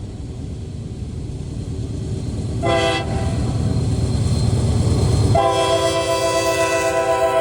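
Train passing with a steady low rumble. Its horn gives a short blast about three seconds in, then a long blast from about five and a half seconds in.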